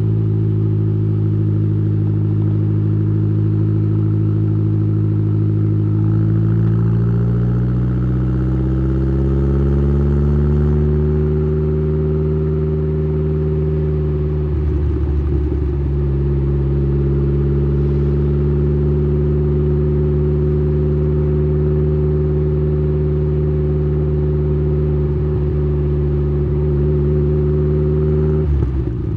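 Exhaust of a tuned Saab 9-3's B204 turbocharged 2.0-litre four-cylinder, heard close at the tailpipe, running under steady throttle. The revs climb gradually about a third of the way in, hold steady for a long stretch, then fall sharply right at the end.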